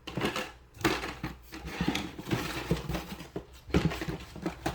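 Carded die-cast toy cars being handled: the plastic blister packaging rustles, with a run of light clicks and knocks as the cards are turned over and set down.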